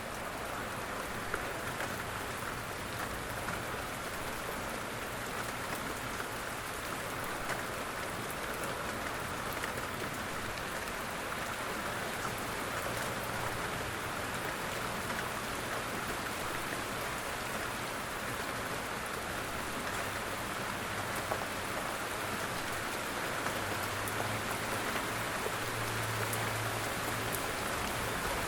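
Steady rain falling, a continuous patter of drops. A faint low rumble grows beneath it near the end.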